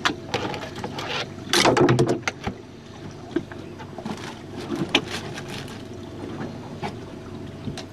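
Water slapping and splashing against a small jon boat's hull as it rocks at sea, with scattered knocks and clatter aboard; the loudest splash comes about two seconds in.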